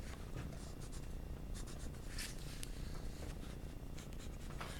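Graphite pencil scratching across paper in a series of short strokes.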